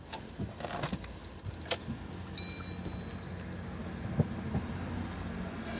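Maruti Suzuki Ertiga Smart Hybrid engine being started after its fuel injectors were serviced and refitted: key and ignition clicks and a brief electronic beep, then the engine settles into a steady idle.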